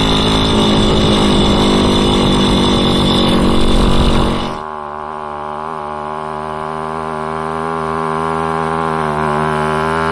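Small two-stroke moped engine of a Puch Maxi running under way. It is loud with a rushing hiss at first; about halfway through it drops in level and the hiss falls away, and the engine note then climbs slowly.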